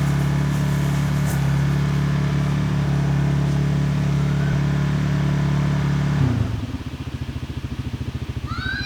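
Dirt bike engine running at a steady high idle. About six seconds in it drops to a slower, lumpy idle with a clear pulsing beat.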